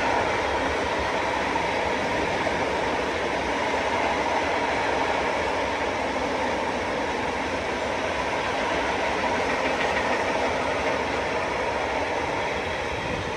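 A train passing on the line: a steady rolling rumble and wheel noise that begins to fade near the end.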